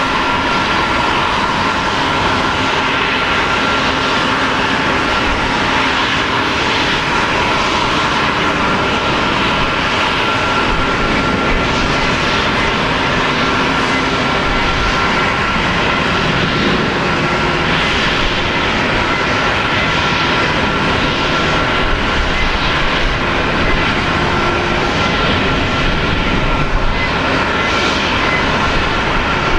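Boeing 777-200's twin Pratt & Whitney PW4000-series turbofan engines running steadily: a loud, even jet rush with a constant high whine.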